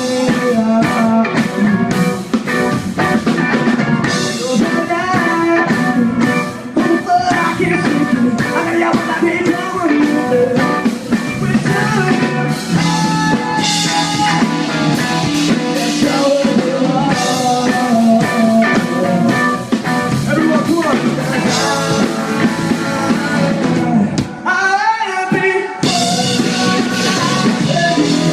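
Live rock band playing: drum kit and electric guitars, loud and steady. Near the end the low end drops out for about a second and a half under a single sliding note, then the full band comes back in.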